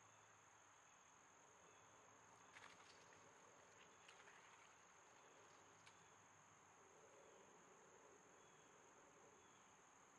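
Near silence: a faint, steady high-pitched whine, with a few faint clicks about two and a half, four and six seconds in.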